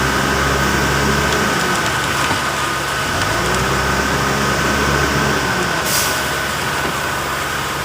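Heavy diesel engine of a concrete truck running steadily at raised speed, with a steady high whine over it and a short hiss about six seconds in.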